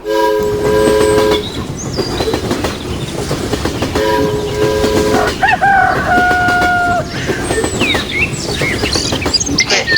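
A multi-tone chord horn sounds twice, each blast over a second long and about four seconds apart, over a continuous rattling clatter. A higher two-tone whistle follows after the second blast, then short chirps near the end.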